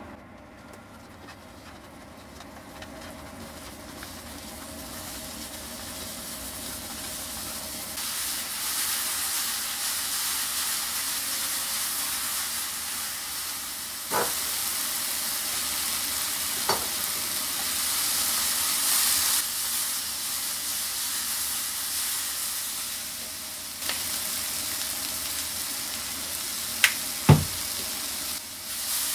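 Sliced onion and mushrooms sizzling as they fry in a frying pan, the sizzle growing louder over the first several seconds, then steady. A few sharp knocks are heard about halfway through and twice near the end.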